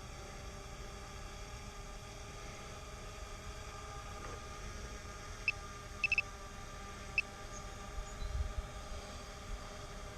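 Faint steady whine of a quadcopter drone's spinning rotors, several pitches held together with a slight waver. A few short high peeps come over it, a quick triple of them about six seconds in.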